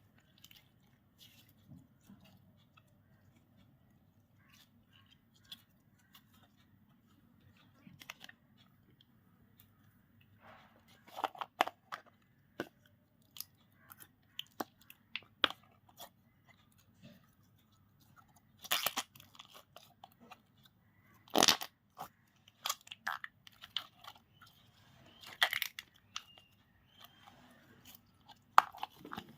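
Slime being mixed and squeezed by hand: a run of small wet clicks and pops, with louder crackling bursts every few seconds in the second half.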